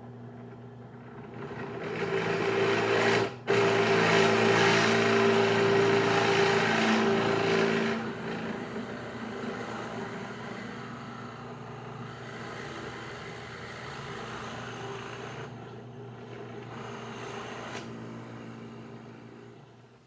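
Electric power tool motor running steadily with a low hum. It gets louder and rougher from about two seconds in, with a brief dip partway, then settles to a lighter steady run and fades near the end.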